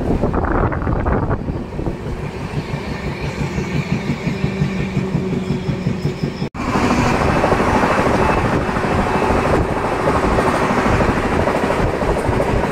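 LHB passenger coach running at speed, heard from its open doorway: a steady rumble of wheels on the rails with rushing air. About halfway through the sound drops out for an instant and comes back louder, with more hiss.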